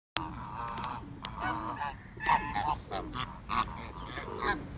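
A group of park birds calling over one another: many short pitched calls in quick succession, several birds at once.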